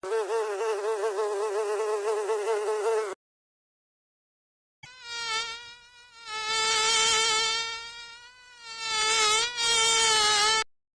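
A flying insect's high buzzing whine, heard in two takes: a wavering buzz for about three seconds, then after a short silence a steadier buzz of similar pitch that swells and fades for about six seconds.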